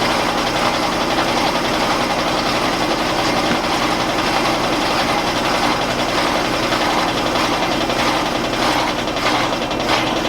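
Admiral belt-drive top-load washing machine in its high-speed spin: steady motor hum and loud whirring of the spinning basket. Near the end, a series of rough rubbing strokes joins in.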